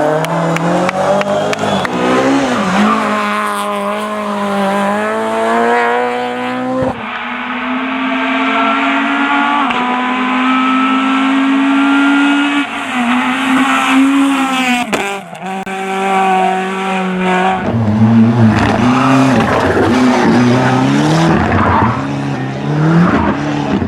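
Rally cars driven hard on a stage, engines revving with their pitch climbing and dropping over and over, with some tyre squeal. The sound changes abruptly twice, about seven and fifteen seconds in, as one car's pass gives way to another's.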